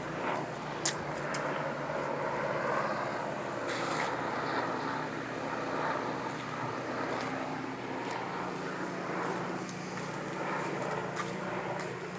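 Rescue helicopter flying overhead: a steady drone of engine and rotors, with a few faint clicks.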